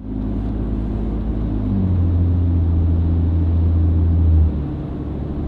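Toyota Tundra's 3.4L twin-turbo V6 running through a Flowmaster American Thunder cat-back exhaust with a 50 HD series muffler, giving a deep steady drone. The engine note rises and gets louder about two seconds in, then drops back off a couple of seconds later.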